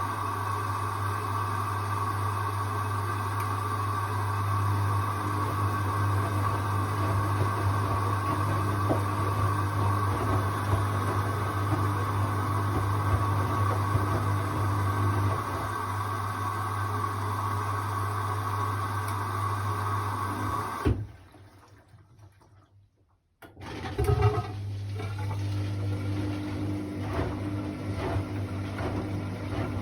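Hoover washing machine running mid-cycle on a quick 14-minute wash, a steady motor hum with water sounds. About two-thirds of the way through it cuts off abruptly, goes nearly silent for a couple of seconds, then starts again with a clunk.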